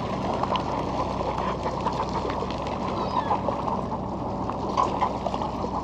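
Steady drone of a boat's engine with water noise, and a few faint high gull calls about three seconds in.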